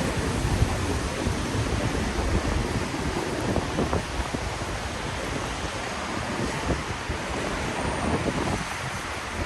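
Steady wash of rain and traffic noise on a wet city street, with a low rumble in the first seconds that eases off.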